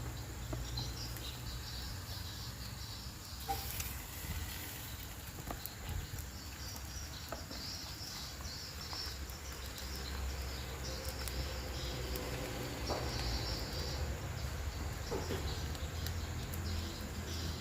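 Outdoor ambience: high-pitched chirping of insects and birds, coming and going in patches over a steady low rumble, with scattered faint clicks.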